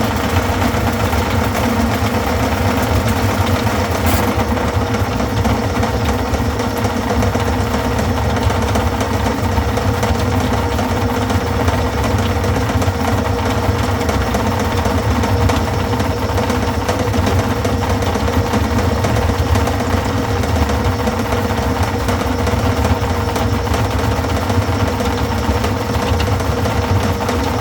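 Drain-cleaning machine running steadily while clearing a grease-clogged kitchen drain: a constant mechanical hum over a low rumble, with a single sharp click about four seconds in.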